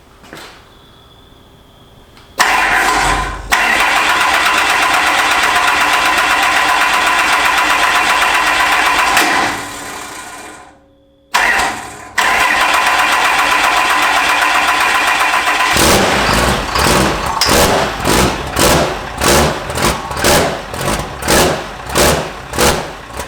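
Cummins turbo-diesel race engine being cranked for its first start, in two long steady runs a second or so apart. From about two-thirds of the way in, the sound turns into a regular rise and fall, under two pulses a second, before it cuts off at the end.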